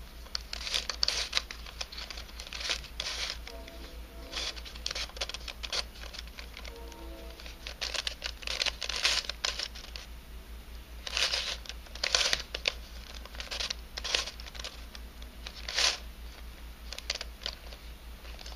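A 3D-printed nylon helicopter cube twisty puzzle being turned by hand: a run of dry scraping and clicking as its pieces slide and grind past each other, over a steady low hum.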